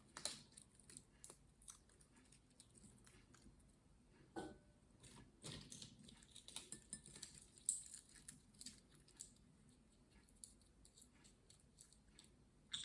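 Faint scattered clicks and crunches of a green-cheeked conure's beak nibbling walnut pieces, with a brief faint squeak about four seconds in.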